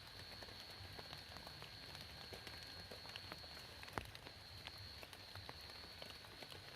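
Rain falling, with many scattered drops tapping irregularly and one sharper tap about four seconds in. A steady high-pitched whine runs underneath.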